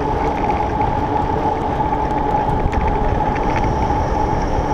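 Steady riding noise from a Surly Krampus mountain bike rolling on pavement: a constant tyre hum with wind rushing over the microphone.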